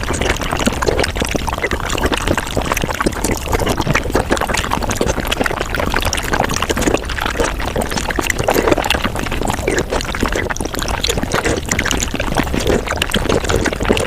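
Mukbang eating sounds of sago played at five times speed: a dense, continuous run of quick wet slurps, smacks and chewing clicks.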